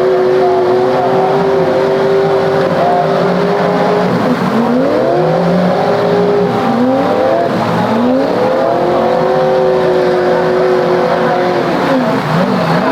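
Off-road 4x4's engine held at steady high revs, then revved up and down over and over from about four seconds in as the throttle is worked.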